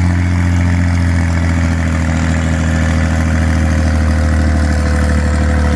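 Farm tractor engine running steadily, a loud, deep, even drone that holds one speed with no revving.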